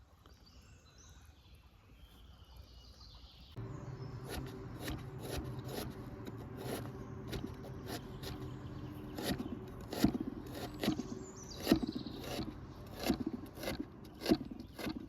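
Faint bird chirps, then after an abrupt change a steady low hum with irregular clicks and knocks of outdoor food preparation; a few knocks stand out near the end.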